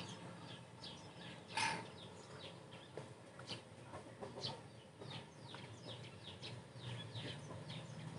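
Faint birds chirping in the background: many short, high chirps that fall in pitch, scattered through, with one louder call about a second and a half in.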